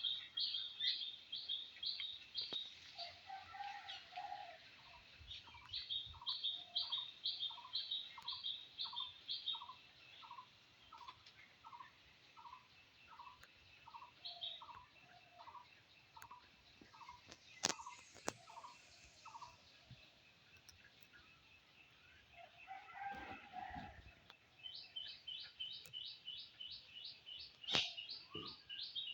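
Birds calling: quick runs of short, high, sharp notes that start and stop in bursts, and over the middle a steady series of lower notes about twice a second. Two sharp knocks cut through, over halfway in and near the end.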